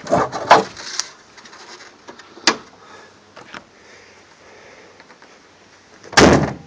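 Metal clunks and knocks from a 1995 Subaru Liberty's bonnet being handled, then a loud slam about six seconds in as it is shut.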